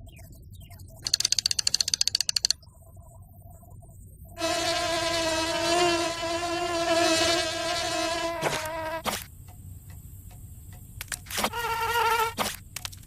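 Cartoon insect buzzing sound effects: a quick fluttering whirr about a second in, then a steady pitched buzz for about four seconds, and a few shorter, higher buzzes near the end.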